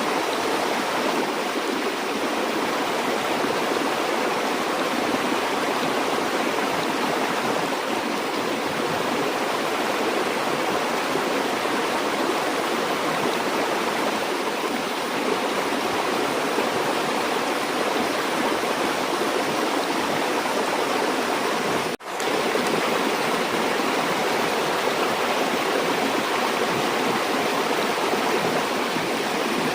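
Water of a river or stream flowing steadily, an even, dense rush. It drops out for a split second about 22 seconds in, then carries on unchanged.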